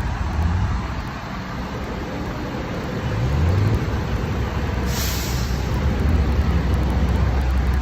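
Old tractor engines running as tractors go past, a steady low hum with mechanical noise, and a brief hiss about five seconds in.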